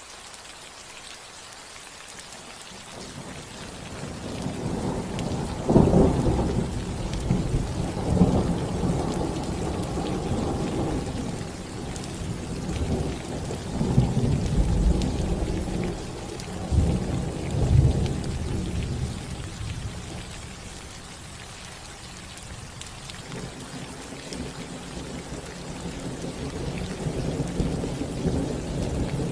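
Rain falling steadily on a roof, with thunder rumbling over it. The thunder builds from about four seconds in, gives several loud cracks between about six and eighteen seconds, dies down, then rumbles up again near the end.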